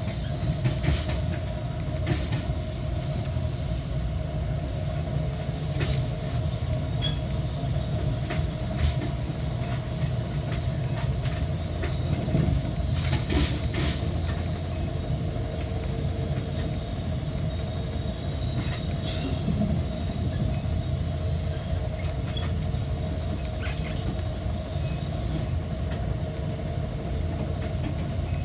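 Metra commuter train running at speed: a steady low rumble with a constant hum, and occasional sharp clicks from the wheels over rail joints.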